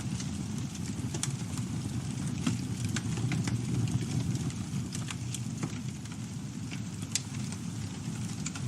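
Campfire burning: a steady low rumble of flames with scattered, irregular sharp crackles and pops from the burning wood.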